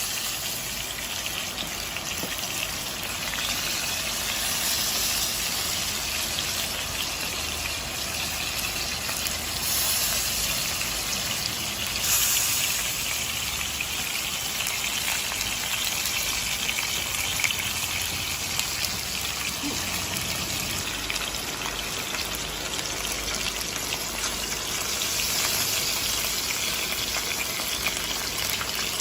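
Beef rib steak sizzling in a frying pan: a steady hiss with a few brief pops.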